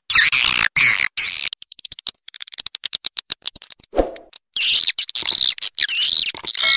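Swiftlet call-lure audio: high, fast twittering chirps of swiftlets alternating with quick trains of sharp clicks. There is a brief low thump about four seconds in. It is the kind of call track played through tweeters in a swiftlet house to draw birds in.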